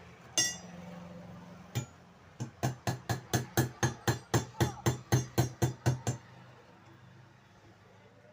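Hammer striking a rivet to fix the bush-retaining cover plate in a table fan motor's end housing. A single ringing metallic clink comes first, then one knock, then a fast run of blows at about five a second that lasts nearly four seconds.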